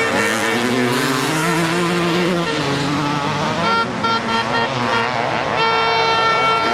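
Motocross motorcycle engines revving up and down, then a steady pitched horn sounding in about five short blasts followed by one longer blast near the end.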